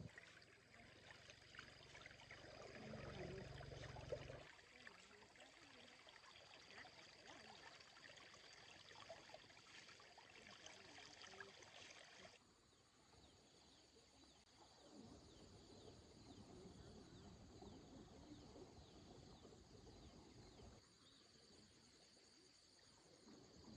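Near silence: faint outdoor background with a thin steady high tone, the background changing abruptly a few times.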